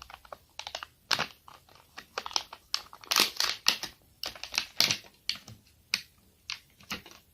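Toy packaging being opened by hand: a quick, irregular run of plastic crinkles, rustles and clicks, thickest and loudest in the middle.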